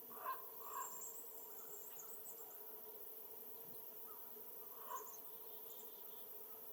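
Birds calling: a few short calls, with faint high, thin calls between them, over a steady low hum and hiss.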